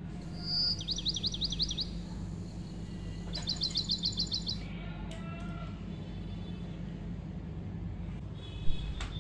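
A bird chirping in two short bursts of rapid, repeated high notes, each note falling in pitch, over a steady low hum. A sharp knock comes near the end.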